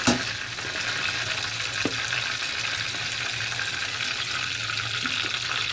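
Mashed chana dal frying in ghee in an aluminium pot, sizzling steadily as a metal spoon turns it over. The spoon knocks sharply against the pot once at the start and again just under two seconds in.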